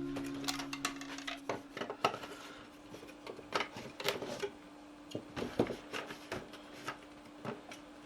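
Steel lathe turning chisels clinking and knocking as they are handled and set down: irregular light metallic clicks, a few to the second, over a faint lingering music note.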